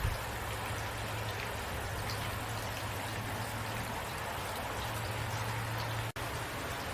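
Steady rain, an even patter with scattered individual drop ticks. It cuts out for an instant about six seconds in, then carries on.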